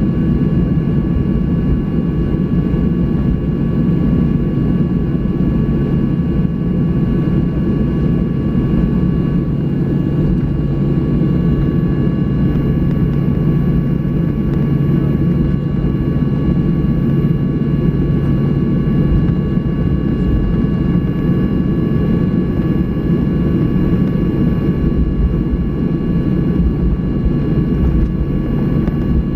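Steady cabin noise inside a Boeing 737-800 on the ground before takeoff. Its CFM56 jet engines at low power and the cabin air make a continuous low rumble, with a few faint, steady high whines above it.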